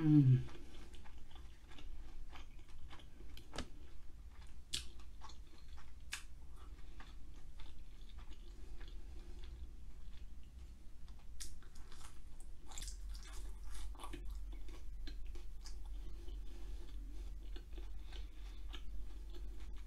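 Close-miked chewing of pan pizza, with wet mouth sounds and scattered small crunches and clicks, over a steady low hum.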